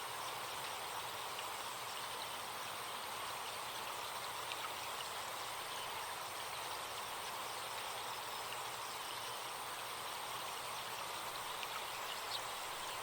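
Forest stream flowing steadily, an even rush of water, with a thin, steady high buzz of insects above it.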